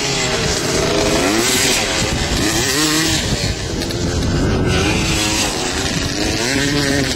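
Motocross dirt bike engines revving, the pitch climbing and falling back several times, over a steady rushing noise.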